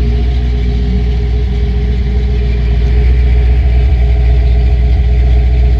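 1986 Chevy C10's 350 cubic-inch V8 idling through a Jegs aftermarket exhaust, a steady low rumble that grows a little louder about halfway through.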